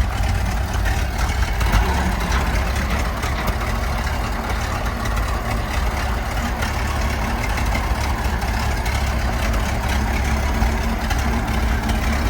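1921 Ford Model T dump truck's four-cylinder engine running steadily, with a strong low rumble.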